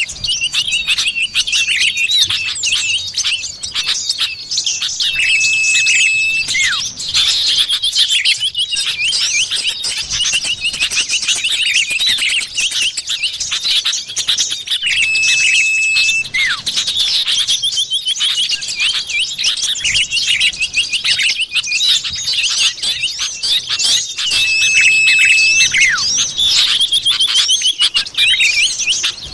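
Lure recording of common iora (cipoh) calls: dense, fast chattering chirps and trills with a level whistled note about a second long that comes back roughly every ten seconds, three times.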